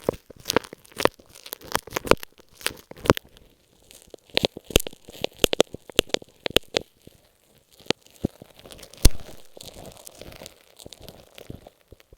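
Masking tape stuck on an earphone microphone, handled right at the mic: irregular crinkling and tearing-like sharp clicks, several a second, turning to softer rustling about ten seconds in.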